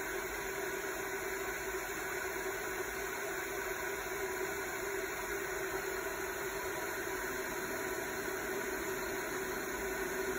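Steady machine hum with an even hiss underneath, holding one low tone without change.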